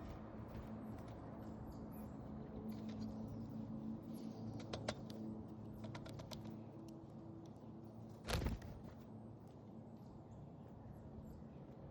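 Small birds at a feeder pecking and cracking seed, heard as irregular light clicks and taps, with a louder brief rush of sound about eight seconds in. A steady low hum runs underneath.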